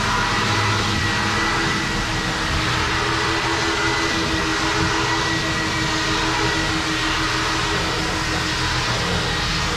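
Automatic car wash machinery running steadily, heard from inside the car: an even rushing noise with a faint, steady high whine.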